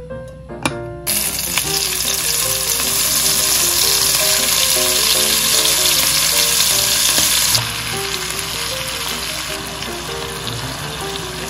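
Napa cabbage kimchi hitting hot oil in a nonstick pot and sizzling loudly, starting suddenly about a second in, as it fries for kimchi stew. The sizzle eases a little about two-thirds of the way through while a spatula stirs it.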